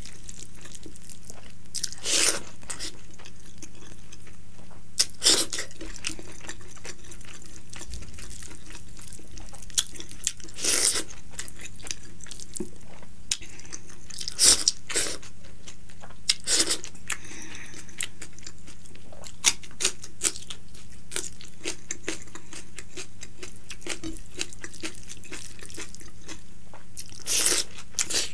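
Close-up eating sounds of a person chewing mouthfuls of rice with boiled egg and leafy greens eaten by hand: separate wet chewing and biting noises every second or few, with the loudest around two, five, eleven, fourteen and twenty-seven seconds in.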